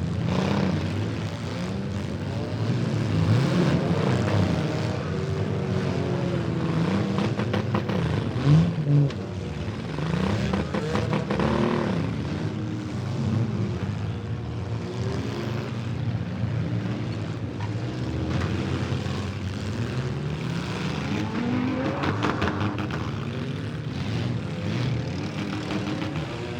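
Several demolition derby cars' engines revving up and down at once, with the bang of a collision about eight and a half seconds in.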